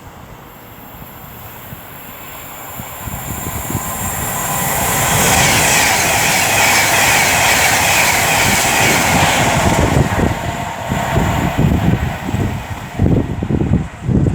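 Class 390 Pendolino electric train passing: a rush of wheels and air that builds for about five seconds and holds loud for several more. Near the end it gives way to uneven low gusts of the train's wake buffeting the microphone.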